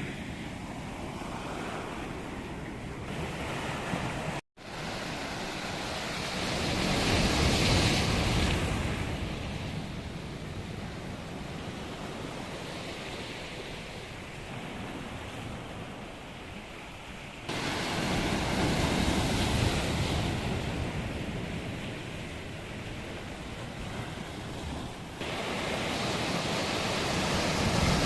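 Sea waves breaking and washing on the shore, with wind buffeting the microphone. The surf swells louder about 7 seconds in, again around 19 seconds, and near the end, and the sound cuts out for an instant about 4 seconds in.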